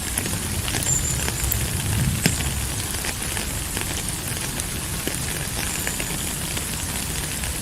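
Steady rain with many drops ticking sharply over an even hiss and a low rumble; one louder drop hit about two seconds in.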